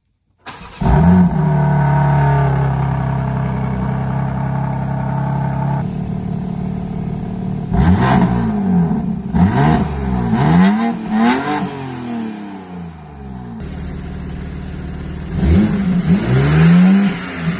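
BMW M4 G82's S58 twin-turbo inline-six, fitted with catted downpipes and a resonated single midpipe, cold-starting: it catches with a quick flare and settles into a steady fast idle. Later come several short throttle blips in quick succession, then one longer rev near the end that rises and falls back to idle.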